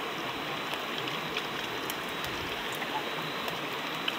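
Heavy rain falling steadily, an even hiss with a few scattered drop hits.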